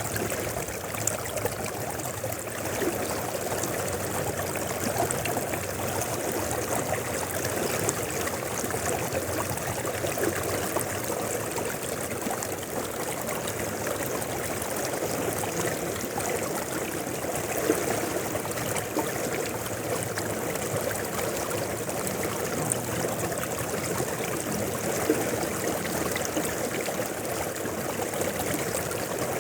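Mountain river flowing: a steady, unbroken rush and trickle of water.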